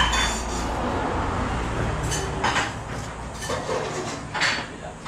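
Low rumble of passing road traffic, fading out about three seconds in, with a few short higher-pitched noises over it.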